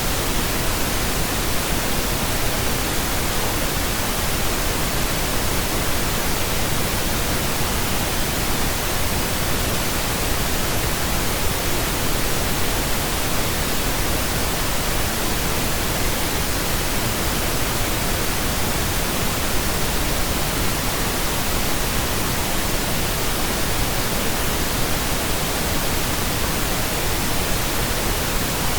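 Steady pink noise: an even, unchanging hiss spread across all pitches, with no tones, rhythm or events.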